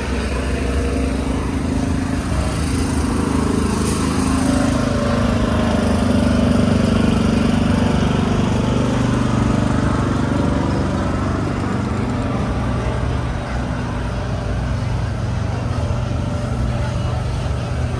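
A vehicle engine running close by, its pitch rising a little a few seconds in and then holding steady at a lower note.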